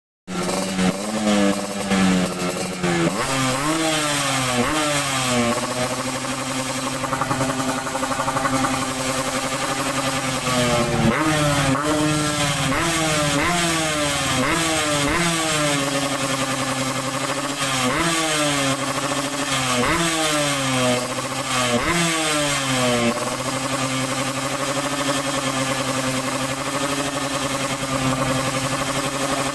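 Yamaha RX-King two-stroke single-cylinder engine breathing through an aftermarket Cobra Raya exhaust, revved in repeated quick blips that rise and fall. It settles to a steady idle about three-quarters of the way through.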